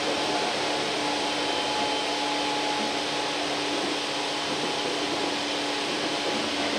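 Interior running noise of a Tokyu 8500 series electric train: a steady rush of wheels on rail and running gear, with a faint steady hum through it.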